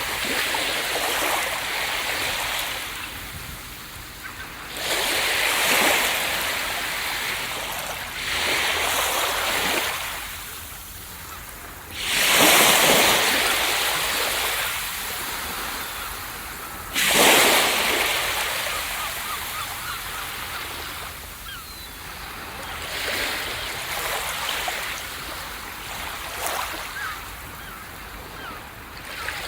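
Ocean waves breaking on a beach: surf that surges with each breaking wave and then fades in a hiss as the water runs back. Two waves, about 12 and 17 seconds in, break loudest.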